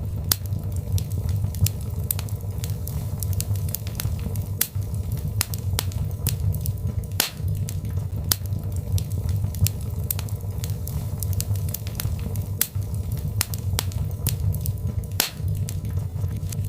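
Birchwood fire burning in a fireplace: a steady low rumble of the flames with irregular sharp crackles and pops from the burning logs, several a second, a few louder than the rest.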